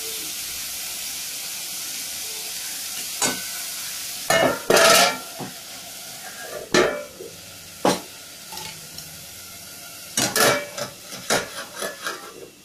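Chicken and vegetable momo filling sizzling in hot oil in a pan. Sharp metal clanks of pan and utensils come about 3 s in, loudest at 4–5 s, then singly and in a quick run near the end. The sizzle grows quieter after the loudest clatter.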